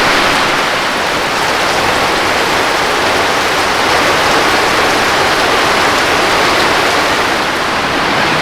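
Heavy rainy-season downpour, a loud, steady, unbroken hiss of pouring rain.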